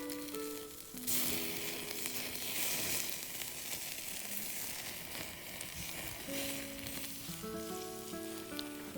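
Pork sizzling as it cooks over the campfire. The hiss starts about a second in and eases off after about six seconds. A soft melody plays under it.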